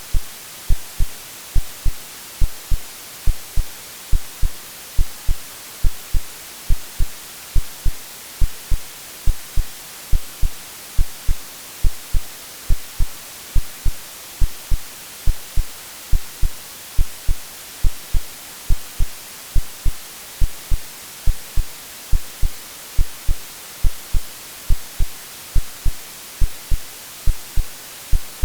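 AI-generated heartbeat sound, regular low thumps, layered over a steady white-noise hiss, made to resemble what a baby hears in the womb.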